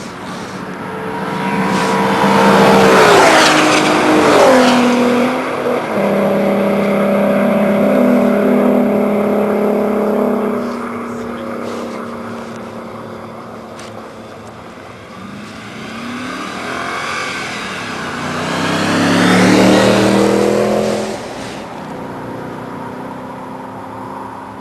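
A Volkswagen R32 and an Audi RS4 drive past one after the other with their engines revving hard. The first engine note drops sharply in pitch as it passes about three to four seconds in, then holds a steady note for several seconds as it pulls away. The second car's note climbs and peaks about twenty seconds in, then falls away.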